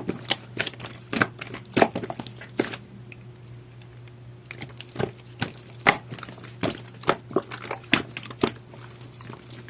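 Jelly-textured slime squished and pressed by hand, making irregular sticky clicks and pops, with a short quieter pause about three seconds in.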